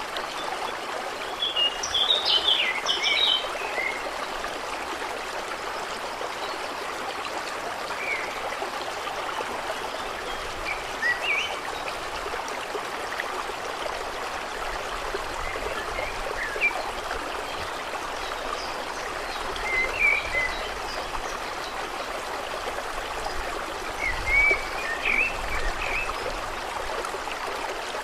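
Steady trickling, flowing water with small birds chirping now and then: a burst of chirps about two seconds in, scattered single calls through the middle, and another run near the end.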